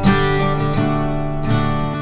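Background music: acoustic guitar strumming chords, a new strum about every three-quarters of a second.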